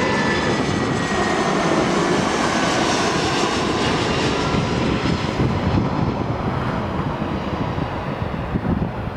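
Jet engines of a TAP Air Portugal Airbus A319 passing on landing: a steady rushing jet noise with a faint whine, its higher part fading from about five seconds in as the aircraft moves away.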